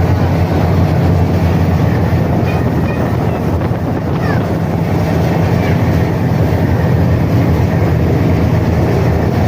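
High-speed passenger ferry's MAN diesel engines running at speed with a steady low drone, over the rushing noise of the churning propeller wake.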